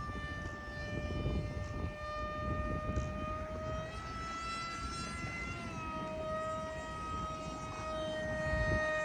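Electric motor and propeller of a radio-controlled F-22 model plane whining in flight: one steady pitched whine that rises slightly about four seconds in and drops just before six seconds.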